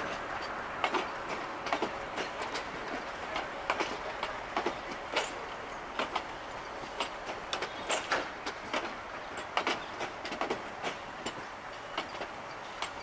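Railway passenger coaches rolling past close by: a steady rolling noise of steel wheels on rail, broken by many sharp, irregular clicks and clacks as the wheels run over the rail joints.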